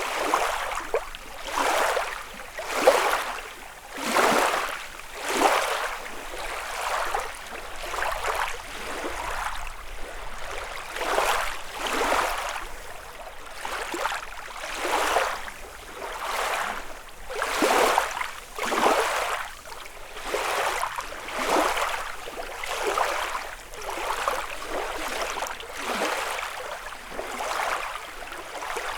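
Small lake waves lapping and washing on the shore, one soft splash after another, about once a second, with a steady rush of water in between.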